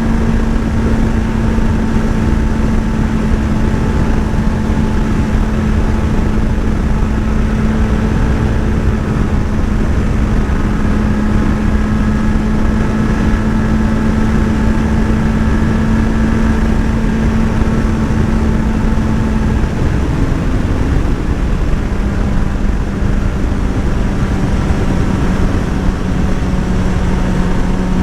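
Motorcycle engine running steadily at cruising speed under heavy wind rush on the microphone. About two-thirds of the way through, the engine note breaks off briefly and comes back slightly lower.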